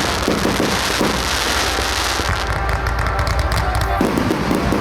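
Aerial fireworks bursting in quick succession over a constant low rumble, with a dense shower of crackling from about half a second in to just past two seconds.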